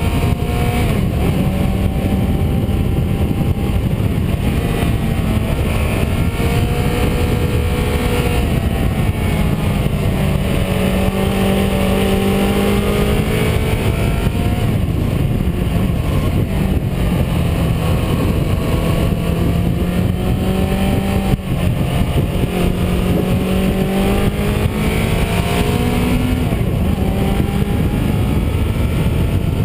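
Car engine under way, its pitch repeatedly rising and falling through the gears as it accelerates and eases off, over steady road and wind noise.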